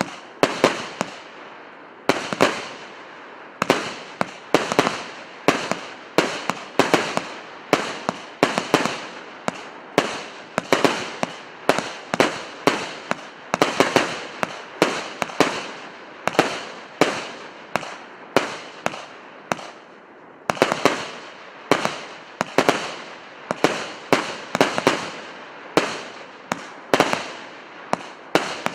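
'Solnechny Veter' (Р8322) multi-shot firework battery firing a long string of shots, one or two a second, each a sharp bang that trails off quickly.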